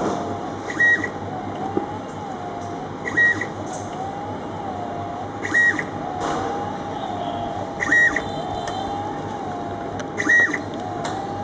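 Short electronic beep about every two and a half seconds, over a steady wavering tone and a low machine hum.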